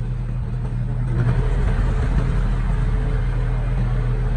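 Diesel engine of heavy earthmoving equipment running, a low steady drone that grows louder and harsher about a second in.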